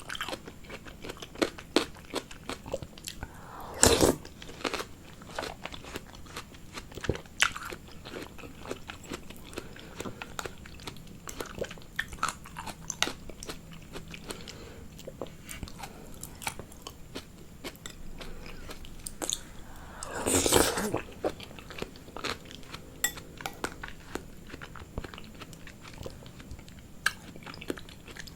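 A person biting and chewing food close to the microphone, with many small wet mouth clicks throughout. There are two louder, longer sounds, one about four seconds in and one about twenty seconds in.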